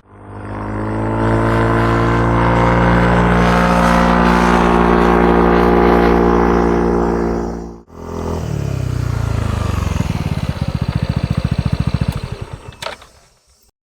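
Yamaha NMAX scooter's single-cylinder four-stroke engine through a PRUNUS aftermarket muffler, running at steady raised revs for several seconds. It cuts off suddenly about eight seconds in, then comes back with the revs falling to a pulsing idle, which fades out near the end.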